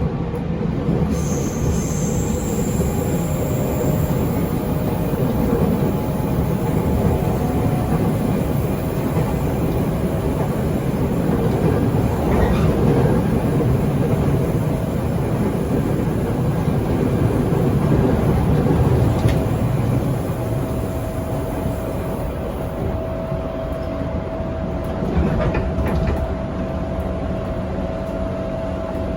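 Running sound heard inside a JR 205 series 500 subseries electric train's motor car: a steady rumble of wheels on the rail and the traction motors under way. A steady whine comes in during the second half.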